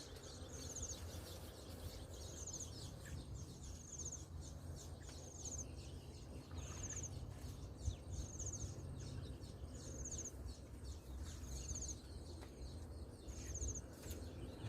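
A small bird's short, high trilled call, repeated regularly about every second and a half, over a steady low rumble.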